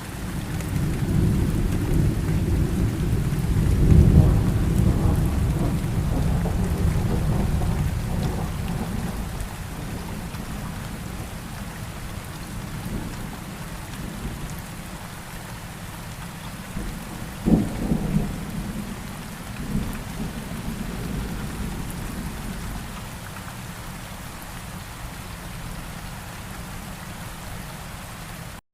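Steady rain with thunder. A long low rumble swells about a second in, peaks around four seconds and rolls away, and a sharper clap with a short rumble comes about two-thirds of the way through.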